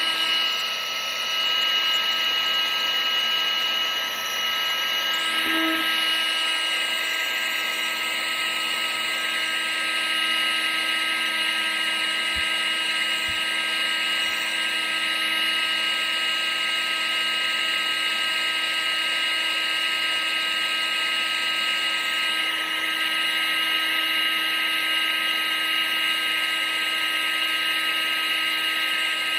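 Electric appliance motor and fan running steadily, a high motor whine over a continuous rush of air, used as white noise.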